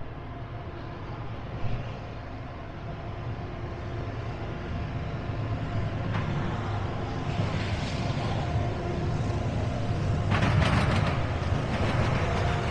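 Train rumbling with a steady engine drone, growing gradually louder, with a louder rushing surge about ten seconds in.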